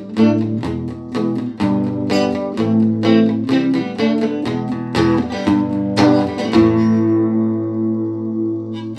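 Guitar played plugged in through effects, strumming chords in a steady rhythm; about two-thirds of the way through, one chord is left ringing out.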